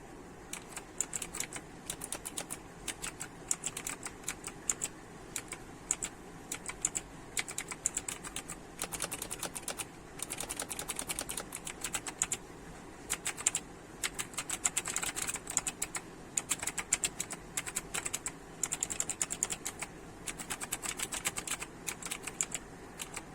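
Typing on a SteelSeries Apex 5 keyboard with hybrid blue mechanical switches: fast, clicky keystrokes in quick runs with short pauses between them.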